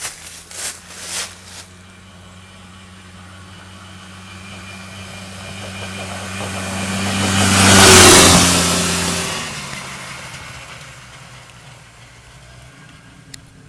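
A motor vehicle's engine approaching, passing close by about eight seconds in and fading away, steady in pitch throughout. A few sharp knocks sound in the first two seconds.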